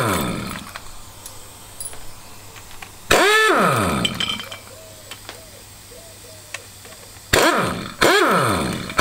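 Handheld electric power tool working the flywheel bolts off a Fiat 500 engine in short trigger pulls: each time the motor whines up and then winds down in pitch, about three seconds in, again near seven seconds and once more just before eight.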